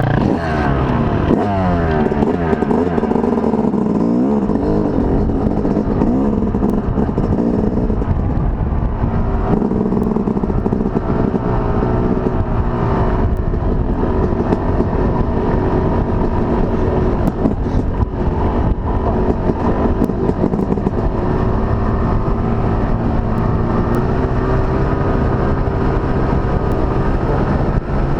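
Off-road motorcycle engine running under a rider over rough trail, revving up and down for the first several seconds as the throttle is worked, then holding a steadier pitch.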